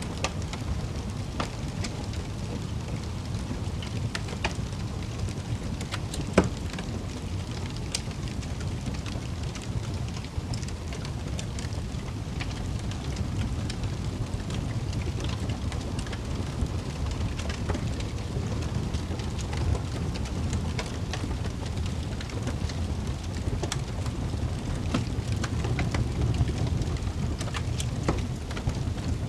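Wood fire crackling in a fireplace: scattered sharp pops over a steady low rumble, with one louder pop about six seconds in.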